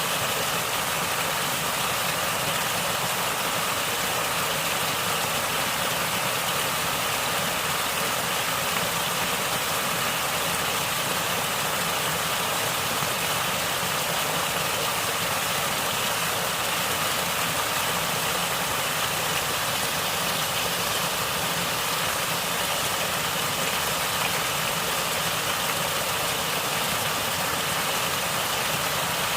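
Natural running water gurgling in a steady, unbroken flow.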